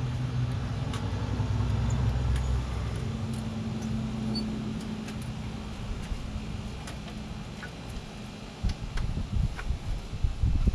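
A low, steady engine hum that fades away after about seven seconds, with faint clicks of small metal tools being handled.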